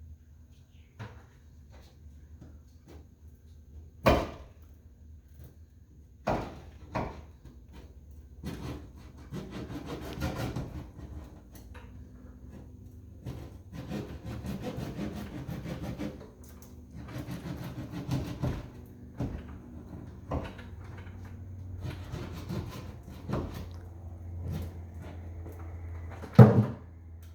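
Bouts of scraping and rubbing against a hard surface, broken by a few sharp knocks, with the loudest knock near the end.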